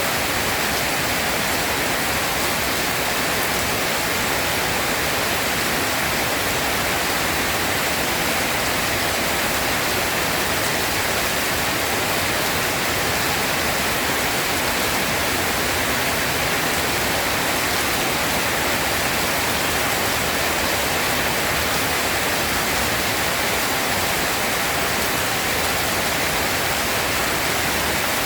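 Steady, heavy rain: a dense, even hiss that holds at one level, with no thunder.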